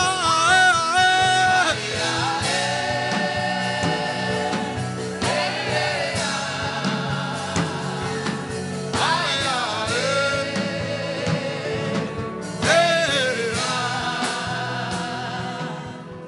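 Gospel worship music: voices singing long, wavering phrases over sustained accompaniment with a steady beat, fading near the end.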